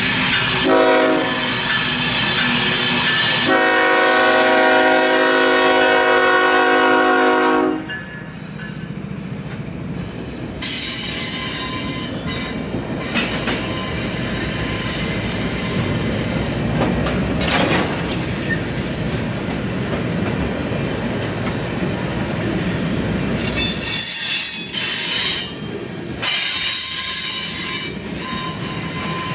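Freight locomotive horn sounding for about seven seconds in two joined blasts, the second louder. It is followed by the steady rumble of a freight train rolling past, with its wheels squealing on and off at a high pitch.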